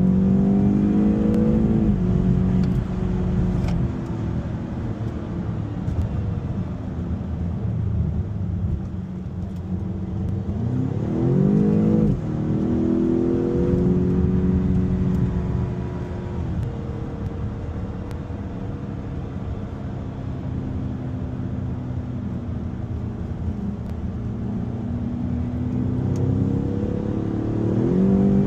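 2019 BMW X6M's twin-turbo V8, heard from inside the cabin, accelerating through the gears with its Valvetronic Designs valved exhaust closed. The engine note climbs and drops with each gear change several times, runs steadier between, and rises again near the end.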